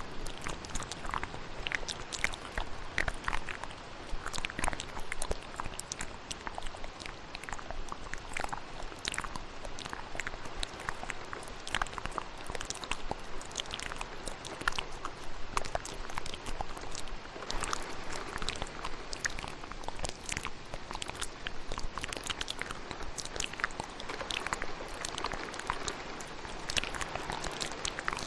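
Layered ASMR mouth sounds, a steady stream of quick wet clicks and smacks, over the even hiss of steady rain.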